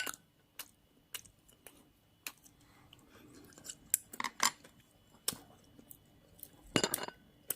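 Person chewing food, with scattered light clicks of utensils and a brief louder sound near the end.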